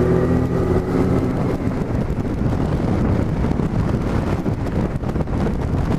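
Motorcycle engine running steadily at first, then wind rushing over the microphone drowns out the engine note about a second and a half in.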